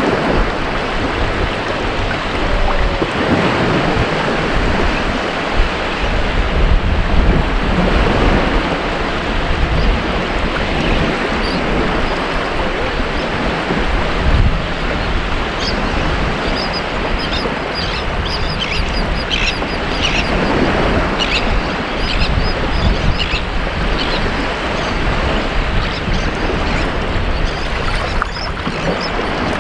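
Ocean surf washing on a beach in a steady rush. Through the middle stretch there is a run of short, high calls.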